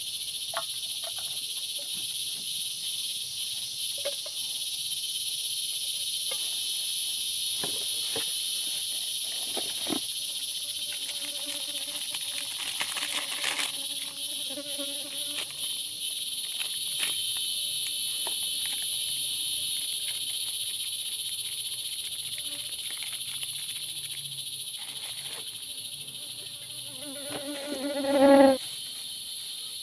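Steady, high-pitched chorus of forest insects droning without a break, with scattered faint clicks. Near the end a loud pitched animal call rises over the chorus for about a second.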